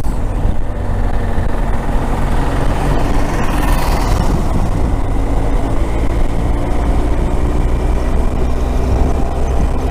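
Motorcycle engine running steadily while riding, with continuous wind and road noise; a brief swell of hiss about four seconds in.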